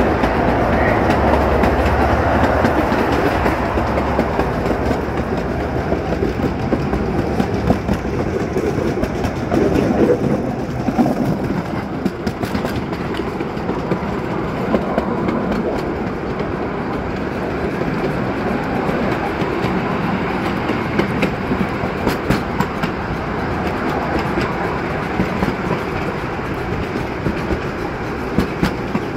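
Miniature park train's cars rolling along the track, heard from aboard: a continuous rumble with the wheels clicking and clattering over the rails.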